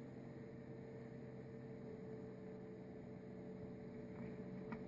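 Low, steady electrical hum with a faint background hiss, and a single faint click near the end.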